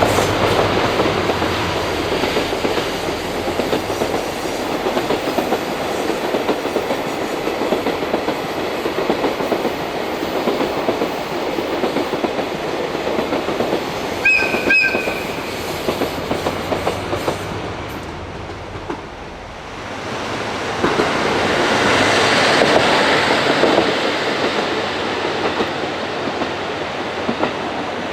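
A train running past on the rails, wheels clattering over the rail joints, with a short high two-note tone about halfway through. The noise dips about two-thirds of the way in, then rises again.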